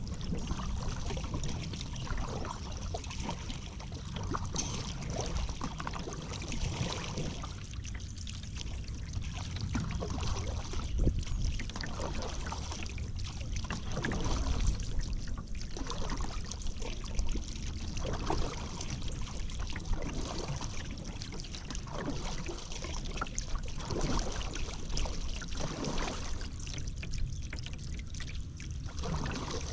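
Paddle strokes in river water, a soft splash and swish about every two seconds, with water dripping and trickling off the blade between strokes.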